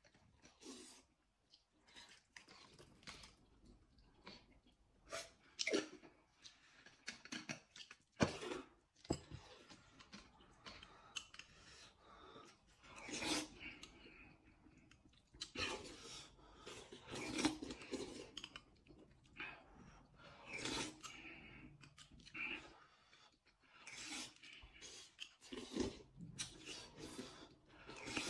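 Close-up eating sounds: noodles slurped and chewed, in short irregular bursts, with small clicks of chopsticks and a spoon.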